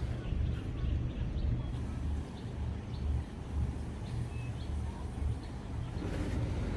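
Uneven low rumble of wind buffeting the microphone, with faint, scattered bird chirps; a faint steady engine hum comes in near the end.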